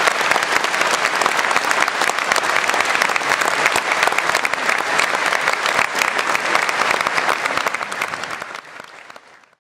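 Audience applauding with dense clapping, fading out near the end as the recording cuts off.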